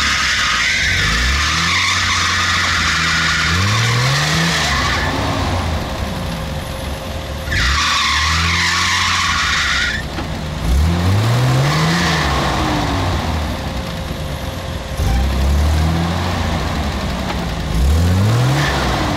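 An off-road car's engine is revved again and again, rising in pitch every few seconds, with a hiss of spinning wheels: the car is stuck and trying to drive free.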